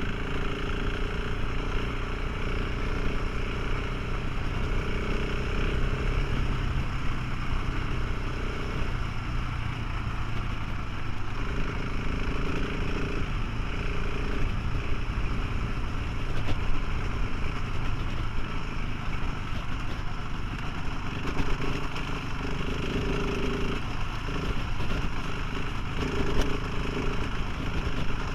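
Motorcycle engine running steadily while riding, its pitch shifting slightly now and then, over a constant rush of road and wind noise.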